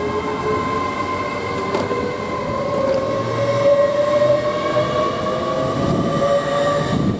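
LNER Azuma (Class 800) multiple unit pulling away, its traction motors whining in steady tones that climb slowly in pitch as it gathers speed, over the rumble of the train.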